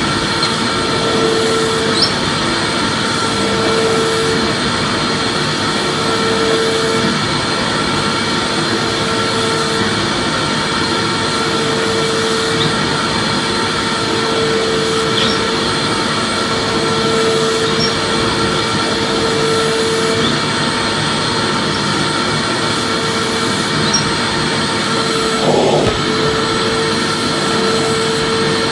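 Vacuum cleaner running steadily, a constant rushing noise with a hum that swells and fades about every two seconds.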